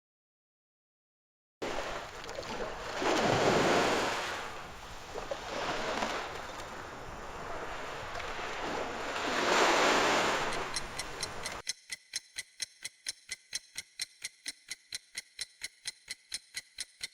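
Ocean surf, a rushing wash of waves that swells twice, cut off suddenly and followed by a clock ticking steadily, about three ticks a second.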